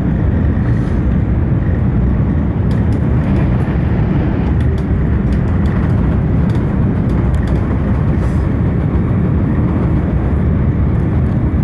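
Steady low rumble and rushing noise inside the carriage of a high-speed train running at speed, with a few faint ticks now and then.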